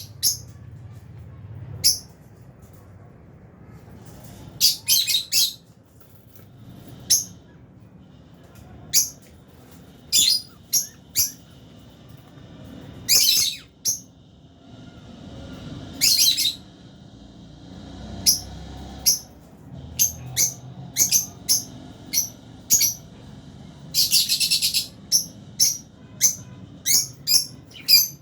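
Lovebirds chirping: short, shrill, high calls, singly and in quick runs of two or three, coming more often in the last third.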